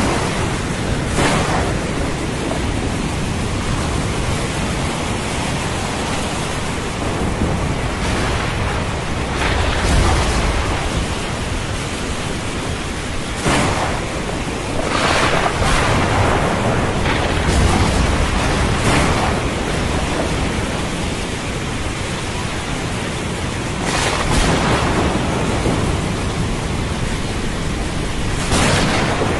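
Thunderstorm: rain hissing steadily, with several sharp cracks of thunder and deep rumbles in between.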